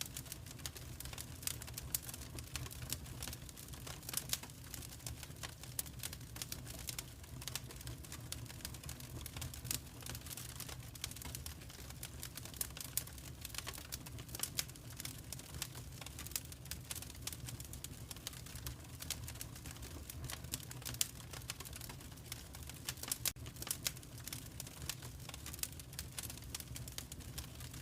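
A fireplace fire crackling, with frequent irregular sharp pops and snaps over a steady low rumble.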